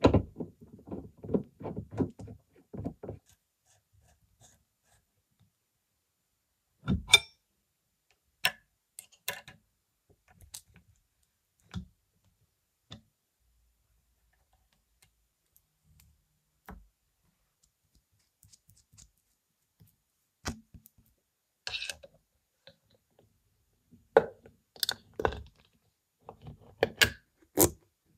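Hand work on car parts and tools: scattered clicks and knocks, a quick rattle of clicks at the start and a busier run of knocks near the end, with quiet gaps between.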